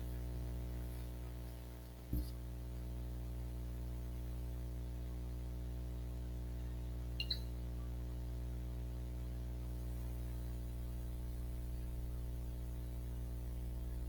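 Steady electrical mains hum with many overtones. There is one sharp click about two seconds in and a faint double click a little after seven seconds.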